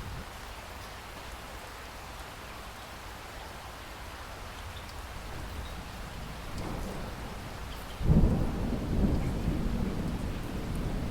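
Steady rain falling, with a clap of thunder breaking suddenly about eight seconds in and rumbling on low and loud.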